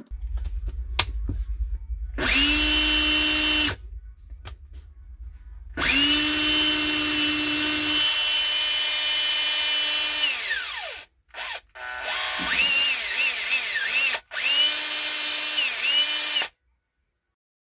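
Makita 18-volt cordless drill's motor run in bursts on the trigger: a steady whine, a longer run about six seconds in that winds down with falling pitch, then short blips and a final run whose pitch wavers as the trigger is eased and squeezed.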